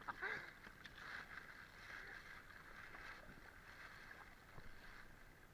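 Faint, steady rush of river water around a rubber raft, with a few soft taps.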